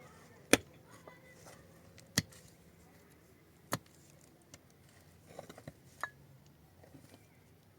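A series of sharp, separate knocks or clinks: four loud strokes one and a half to two seconds apart, with a cluster of lighter clicks between the last two.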